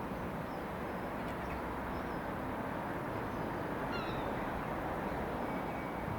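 Steady outdoor rumble with no clear engine note, with a few faint, short high bird chirps over it.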